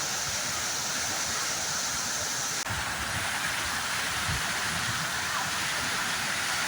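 Steady rushing noise of a big waterfall, with a brief dip about two and a half seconds in.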